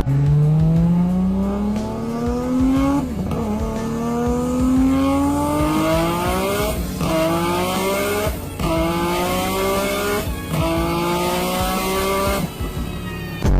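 Car engine on a chassis dyno making a full-throttle pull through the gears. Its pitch climbs steadily in each gear and drops at each of about four upshifts.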